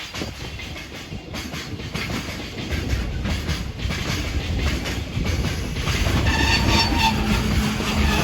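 Freight train running past on the track, its wheels clattering over the rail joints and growing louder. About six seconds in, a steady pitched tone joins it.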